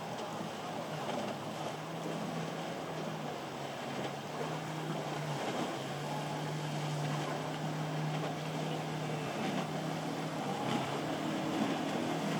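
Motorboat engines running with a steady low drone that grows slightly louder as the boat comes closer, over a hiss of wind and surf.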